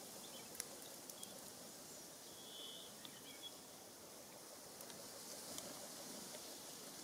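Faint outdoor background hiss with a few short, high bird chirps, one held a little longer about two and a half seconds in. A sharp click comes about half a second in, with a few fainter ticks later.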